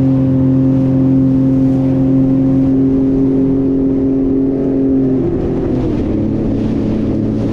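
Jet ski engine running steadily at speed, with a rushing noise underneath. A little after five seconds in, its pitch drops as the throttle eases off, then it picks up again near the end.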